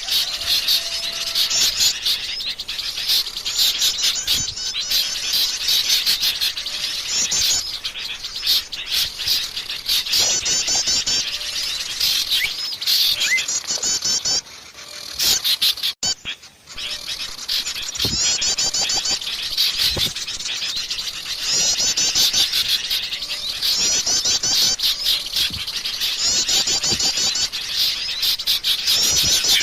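Forest songbird singing: rapid, high chirping phrases repeated every couple of seconds, with a short lull about halfway through.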